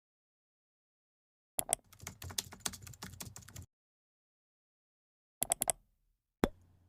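Sharp keyboard-like clicks in short bursts, a quick run of them for about two seconds and then a pair and a single click, with dead silence between them. No wave noise is heard.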